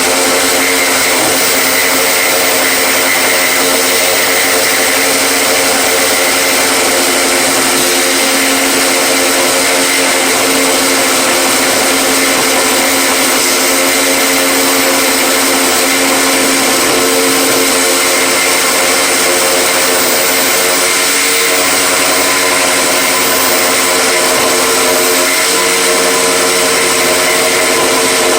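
Electric motor running steadily and loudly without a break, a constant hum over a broad hiss.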